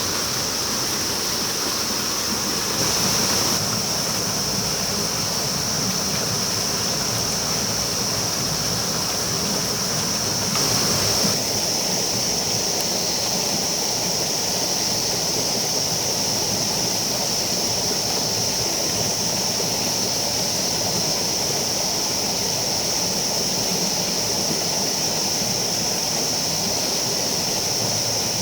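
River water rushing steadily, with a steady high-pitched hiss over it and two brief louder swells, about three and eleven seconds in.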